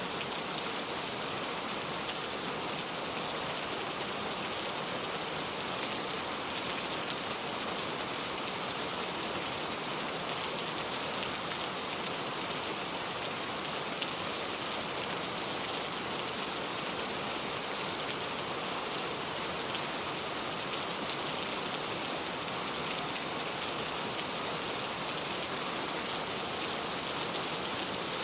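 Heavy rain pouring steadily, a dense even hiss with many small drop ticks.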